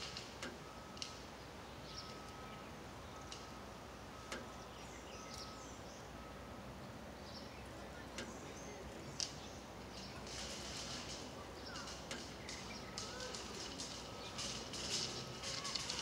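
Faint outdoor ambience with small birds chirping: short high chirps that grow busier in the second half, over a softly repeating high note.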